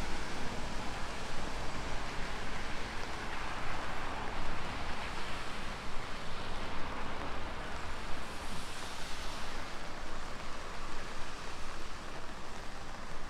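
Steady rain falling, an even hiss with a low rumble beneath, swelling a little about four to six seconds in.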